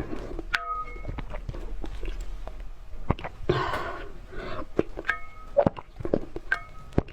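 An animal eating an egg: wet smacking and clicking chewing sounds, with a breathy sneeze-like hiss about halfway through and a few brief steady tones.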